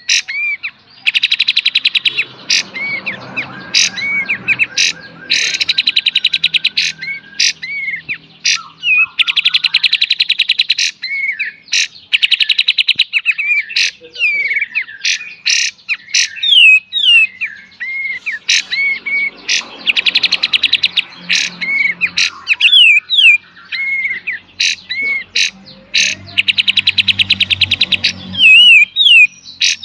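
Kapas tembak songbird singing loudly: fast rattling trills (the 'beset') about two seconds long come four times, between runs of short, sharp single notes (the 'tembak') and a few falling whistles.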